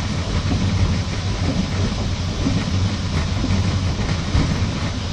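Passenger train carriage rolling at speed, heard from inside the car: a steady low rumble with the wheels clacking over rail joints now and then.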